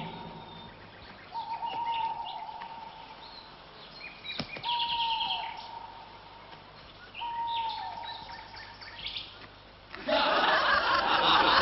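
Birdsong: short chirps over three long whistled notes, each held and then dropping in pitch at the end. A louder, fuller sound cuts in near the end.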